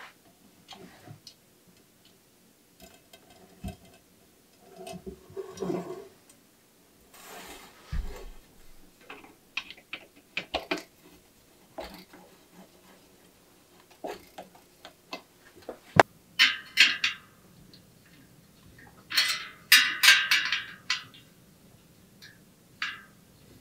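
Bicycle parts and hand tools being handled at a workbench: scattered light clicks and metal taps, with louder bursts of scraping or rustling about two-thirds of the way through.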